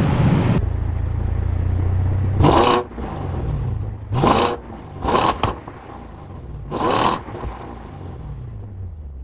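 BMW 6 Series engine and exhaust idling, then free-revved in five short blips, two of them in quick succession, with the revs falling back to idle after each. A louder rushing sound cuts off suddenly just before the idle begins.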